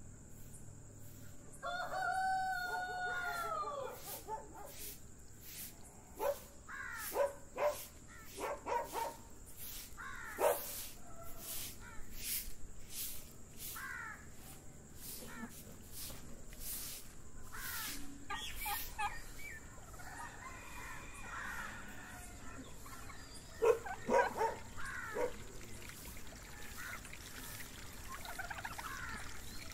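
Birds calling outdoors over a faint steady high tone: one long call about two seconds in, then runs of short calls, with another cluster around twenty-four seconds.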